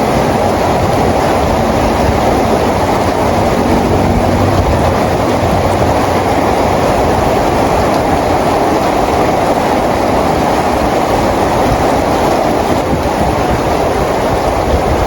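Steady rain falling, an even hiss and patter without a break.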